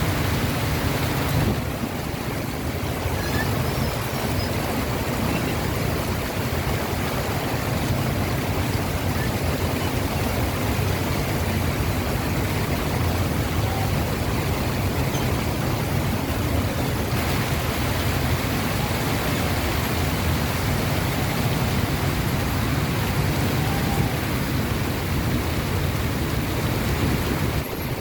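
Heavy monsoon rain falling steadily, a dense even rush of noise with no pauses.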